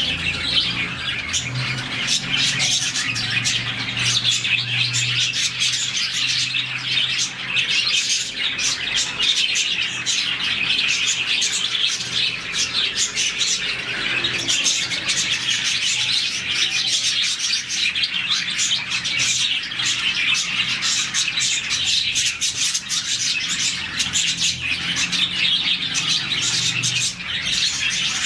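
A colony of about forty budgerigars chirping all at once: a dense, unbroken chatter of many overlapping high chirps, the contented calling the birds make in the morning.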